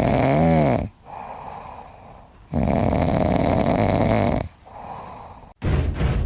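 A dog snoring: two long, loud, rasping snores about three and a half seconds apart, with quieter breaths between them.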